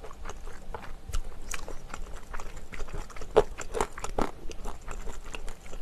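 A person chewing a mouthful of spicy chicken and glass noodles close to the microphone: irregular wet clicks and smacks of the mouth.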